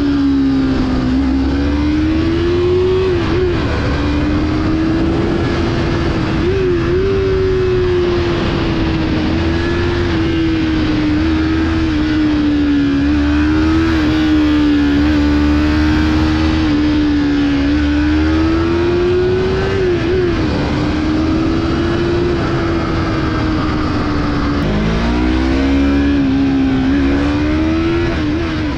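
Yamaha MT-03's 321 cc parallel-twin engine pulling on the move, its note rising and falling with brief dips at gear changes and a sharp climb in revs near the end, under steady wind rush.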